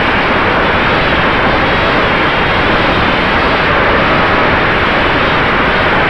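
Steady rushing noise of wind and spinning propellers picked up by the onboard camera of a small FPV racing quadcopter in flight, in strong gusty wind.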